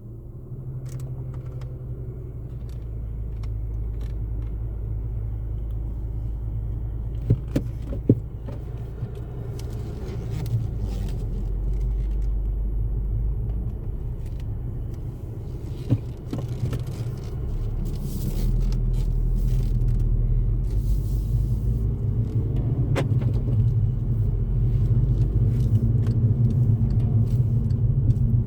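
Low, steady engine rumble from a 2012 Volkswagen GTI's turbocharged 2.0-litre engine, slowly growing louder. A few sharp clicks come through about seven, eight and sixteen seconds in.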